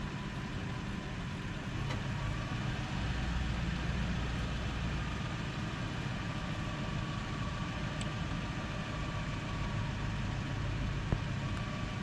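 Pickup truck engine idling steadily, a low even hum, with a single faint click about eleven seconds in.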